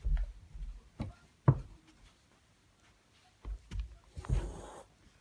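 Several dull thumps and knocks, the loudest about one and a half seconds in, then a short rustling burst near the end.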